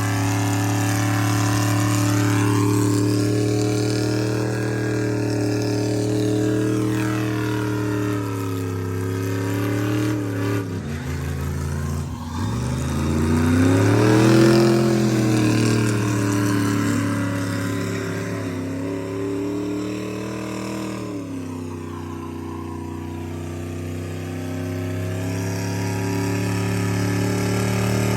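A big truck engine running hard with a steady drone. About ten seconds in its pitch sags, then climbs back and peaks a few seconds later, and it drops again past the twenty-second mark, as revs fall and rise under load.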